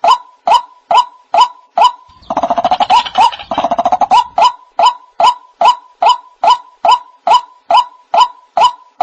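White-breasted waterhen calling: loud, evenly repeated notes, about two and a half a second, each with a short upward hook. About two seconds in, the series gives way to a fast stuttering chatter lasting about two seconds, then the steady notes resume.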